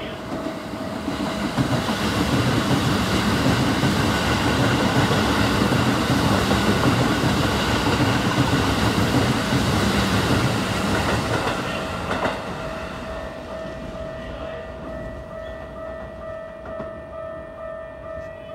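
Keikyu electric train running past along the platform, a loud rumble with wheels clattering over the rail joints that builds in the first two seconds and fades about twelve seconds in. A steady ringing tone, with a pulsing higher tone above it, carries on after the train has gone.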